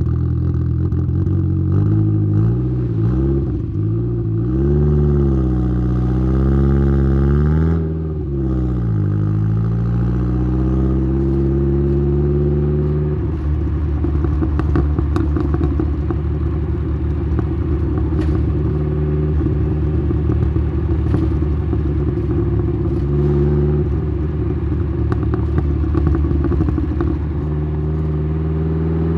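Exhaust note of a tuned Saab 9-3's turbocharged 2.0-litre four-cylinder B204, heard at the tailpipe through a 3-inch downpipe and Simons muffler. The revs rise and fall several times over the first ten seconds, then climb and hold at a steady cruise with a rough, grainy burble, with a short rise and dip near the end.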